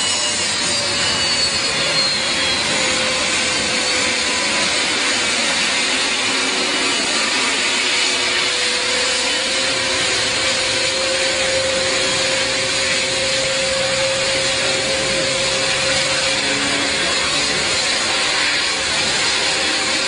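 Jet aircraft engines running steadily: an even rush of noise with a held hum, and a high whine that falls slightly in the first few seconds.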